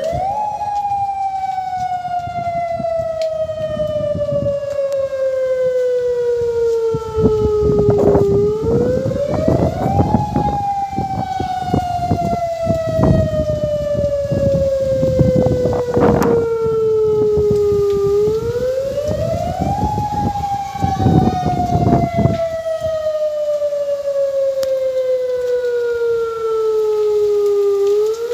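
Outdoor warning siren sounding in a repeating cycle: the pitch climbs quickly, then slides slowly back down over about eight seconds, three times. Bursts of rushing, crackling noise sound under it through the middle stretch.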